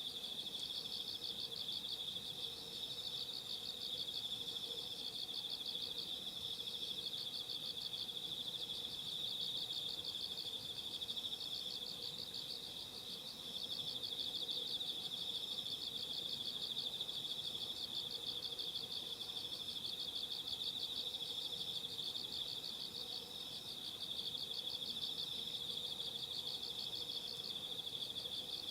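Night chorus of singing insects: a steady high trill with pulsed chirps above it, repeating every second or two.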